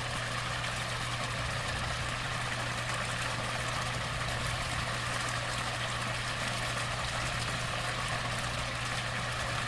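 Pond waterfall running, a steady even rush of falling water over a constant low hum.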